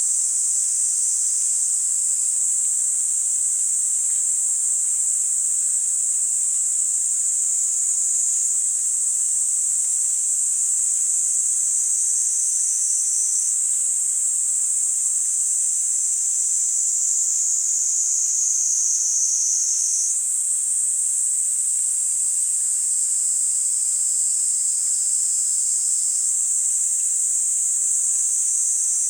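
Kaempfer cicadas (niiniizemi) singing in a continuous high-pitched buzz. Several overlap, with the lower voices shifting in pitch every few seconds.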